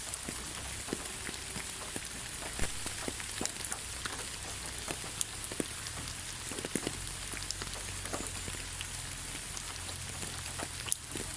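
Light rain falling in a forest: a steady hiss with many separate drops ticking close by.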